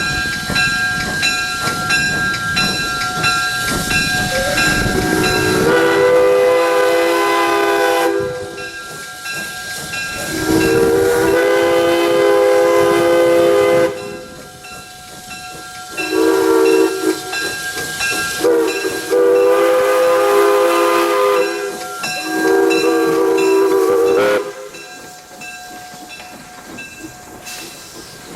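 Steam locomotive whistle, Jeddo Coal Company 0-4-0T No. 85, blowing a series of blasts: two long, a short, a long, then a shorter one. Before the first blast there are a few seconds of loud engine and steam noise.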